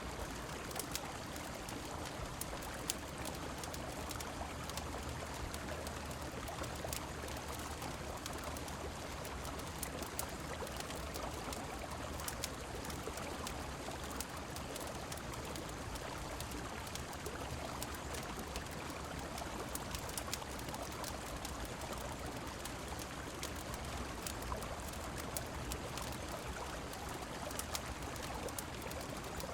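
Mixed ambience of a river's steady rushing water and falling rain, with a wood fire in a fireplace crackling in frequent sharp clicks.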